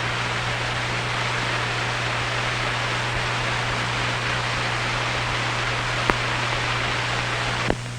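Steady hiss with a low, even hum from an old film soundtrack carrying no narration. There is a sharp click about six seconds in and two more near the end.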